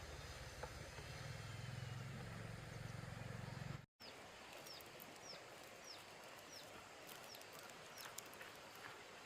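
A steady low rumble for about four seconds, cut off sharply. After the cut, in quieter outdoor sound, a bird repeats a short, high, falling chirp about every half second to second, with scattered light clicks.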